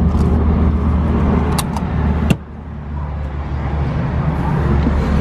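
A car engine idling with a steady low hum, with a few light clicks and one sharp clunk a little over two seconds in.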